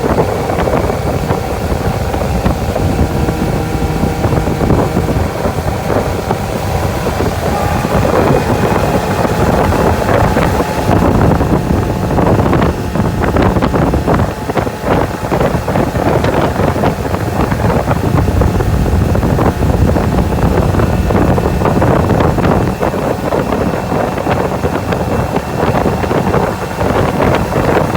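Suzuki DF115 four-stroke outboard motor running under way, with wind buffeting the microphone over the engine note. The engine's pitch steps up slightly about eight seconds in.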